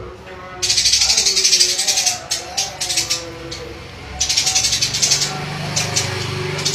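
A bird's rapid rattling chatter, in bursts of about a second made of fine fast strokes, with shorter chatters between. Lower wavering tones run beneath, and a low hum joins near the end.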